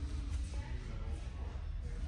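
Background murmur of distant voices over a steady low rumble, with faint music.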